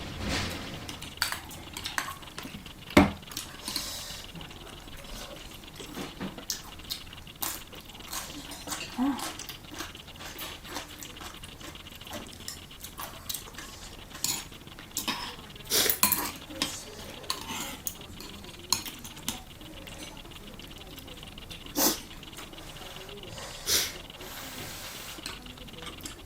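Utensils clinking and scraping irregularly against dishes during a meal of ramyeon, with the sharpest clink about three seconds in.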